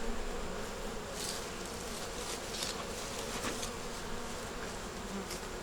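Honey bees buzzing steadily around an open hive during a frame inspection, with a few faint scrapes.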